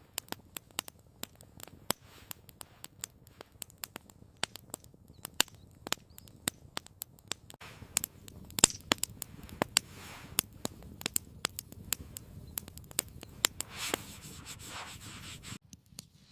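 Wood fire crackling, with irregular sharp snaps several times a second over a low steady rumble, and a brief soft rustle near the end.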